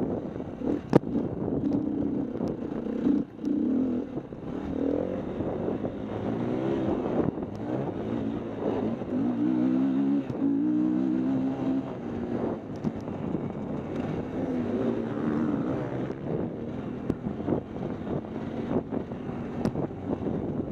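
KTM 250 EXC-F's single-cylinder four-stroke engine revving up and dropping back again and again as the dirt bike is ridden around a motocross track. Wind on the microphone throughout, and a sharp knock about a second in.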